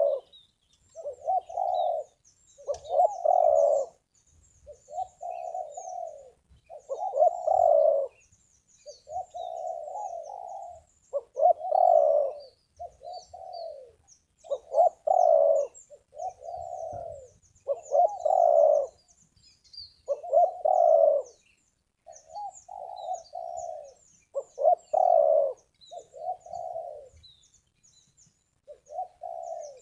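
Spotted doves cooing, a phrase every second or two, over faint high chirps of small birds.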